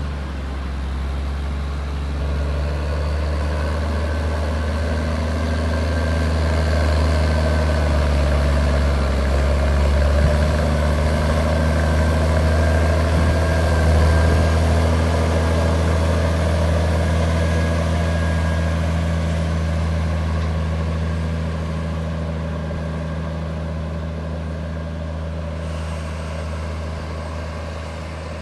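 Heavy engine running steadily with a low hum, growing louder toward the middle and slowly fading near the end.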